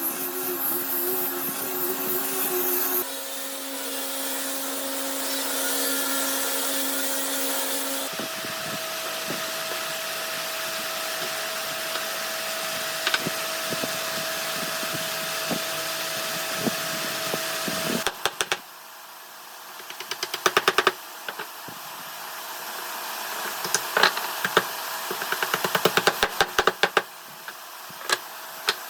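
Electric woodworking power tools running steadily, the pitch changing abruptly twice as one tool gives way to another, then a quieter stretch of repeated sharp knocks and taps on wood.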